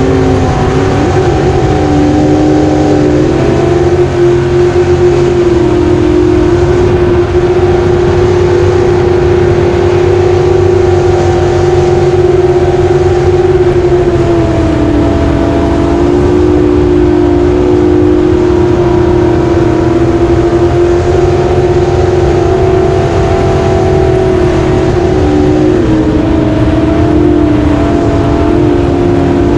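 Racing jet boat engine running hard at high revs. Its steady note drops and climbs again a few times as the throttle is eased and opened, with a hiss of water and wind beneath it.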